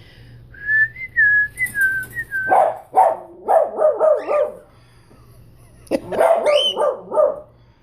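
A high, wavering whistle for about two seconds, then a dog barking in two bouts of rapid, whiny barks with a gap between them. The dog is barking at a bird, which the owner puts down to jealousy.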